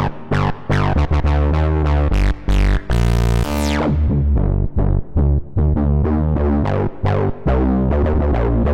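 Waldorf Pulse 2 analog monosynth playing a bass preset: a fast run of short pitched bass notes, each opening bright and closing down quickly. About three seconds in, one longer held note has its brightness sweeping down.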